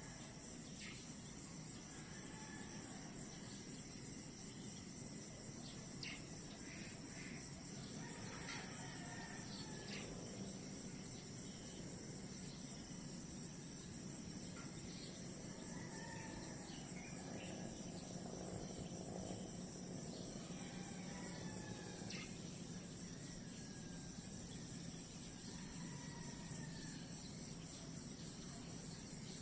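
Crickets chirping in a steady, high-pitched pulsing trill, with scattered short bird calls over it.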